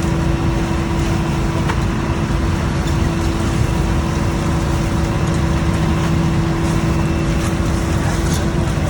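A boat's engine running steadily at a constant pitch, a loud, even drone.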